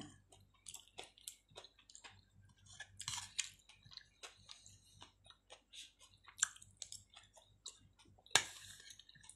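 Close-up chewing of chicken and potato: wet mouth smacks and small clicks come one after another, with one louder sharp clack near the end.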